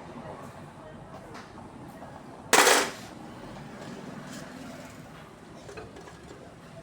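A single short, loud burst of hissing noise, lasting under half a second, a little over two seconds in, against a faint background.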